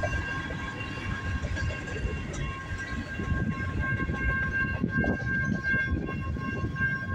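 Freight train moving on the rails, with a steady high-pitched tone over the low noise of the cars. Wind buffets the microphone.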